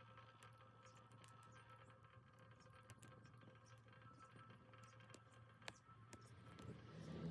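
Faint crackling and ticking of small wood burning in a Sierra stove, over the steady low hum of the stove's battery-powered blower fan. There is one sharper crack about two-thirds of the way through, and a soft rising rush near the end.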